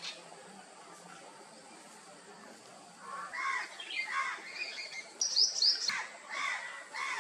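Birds calling in the open after about three seconds of quiet: a few short lower-pitched calls, then a quick run of high, sharp chirps about five seconds in, then more calls.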